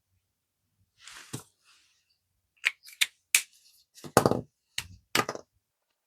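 A brief rustle, then a quick series of sharp clicks and knocks as small objects are handled and set down on a hard work surface, the loudest knock about four seconds in.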